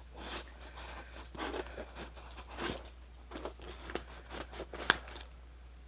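Cardboard snack box being handled and opened: irregular scrapes, taps and short tearing rustles of cardboard and tape, going quieter near the end.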